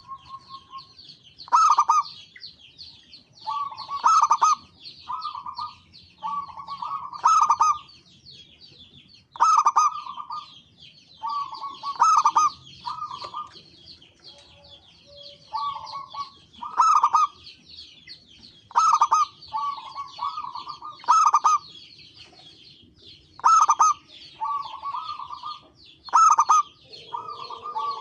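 Zebra dove (perkutut) cooing: repeated phrases of quick staccato coo notes, one every two to three seconds, each opening with a loud note. Behind them runs a steady high twittering.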